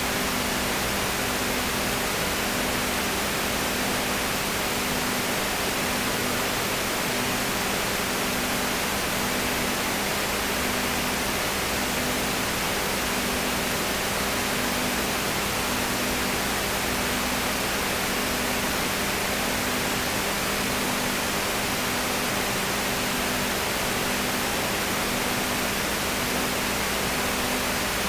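Steady hiss with a low, steady electrical hum and a faint tone pulsing about once a second; no other sound.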